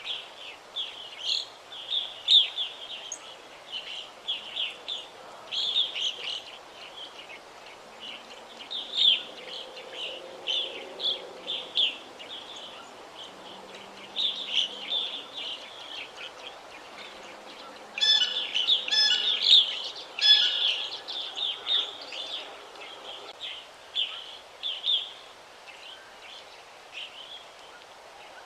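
Several small songbirds chirping and singing, with short high calls following one another closely and a livelier stretch about two-thirds of the way in, over faint steady background noise.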